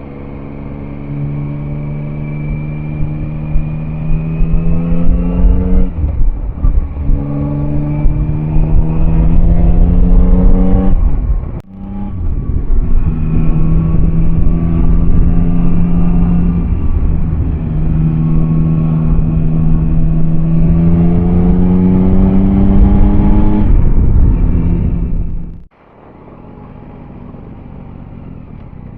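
Yamaha Tracer 9's three-cylinder engine accelerating hard through the gears, its note rising in each gear and dropping back at each upshift, over steady wind noise. Near the end the sound breaks off and a quieter, steady engine note follows.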